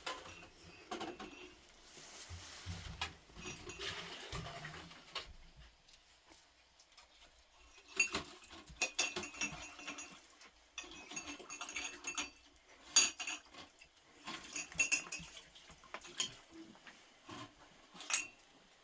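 Dishes and utensils clinking and clattering as they are handled, in short spells with pauses between.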